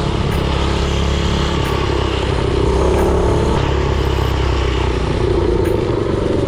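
Predator 224cc single-cylinder four-stroke engine on a mini-bike running at a steady speed under way, its pitch shifting slightly a couple of times.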